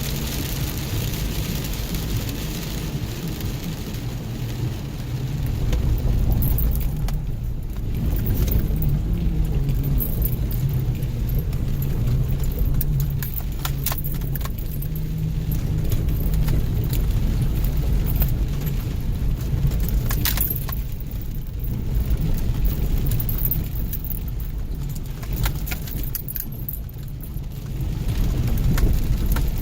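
Four-wheel-drive vehicle climbing a rough, wet dirt road, heard from inside the cab: a steady low engine and tyre rumble, with frequent light rattles and jingles as it jolts over the bumps.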